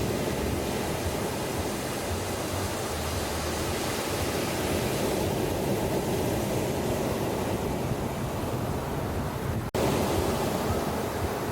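Ocean surf washing steadily on a beach, a continuous rushing of waves with no distinct breaks, cut by a brief silent dropout near the end.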